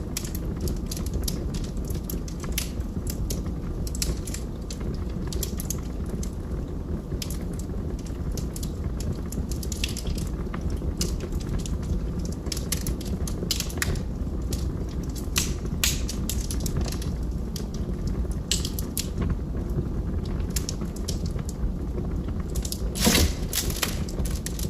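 Log fire crackling in a fireplace: scattered sharp pops and snaps over a steady low rumble of the flames, with one louder pop near the end.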